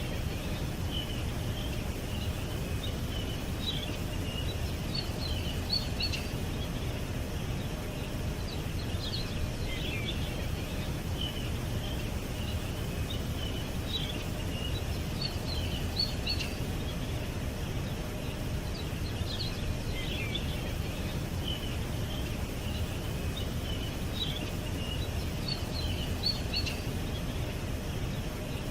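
Small songbirds chirping and trilling in scattered bursts every few seconds over a steady low background rumble.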